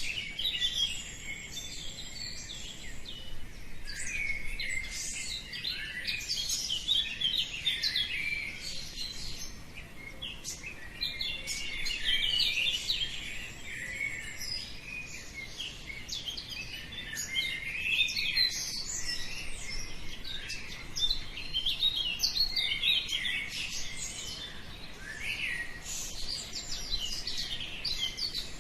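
Many small birds chirping and singing at once, their short calls and trills overlapping without a break.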